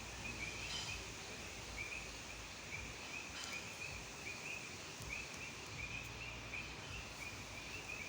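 Frogs calling in a chorus: runs of short, high-pitched chirps repeating one after another, over a steady low background rumble.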